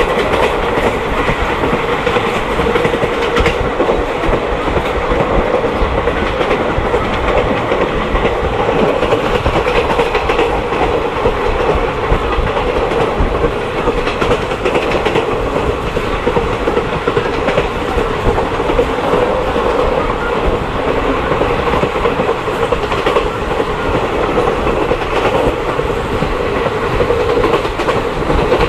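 Moving passenger train: steady rumble of wheels on rails, with faint clicks over the rail joints.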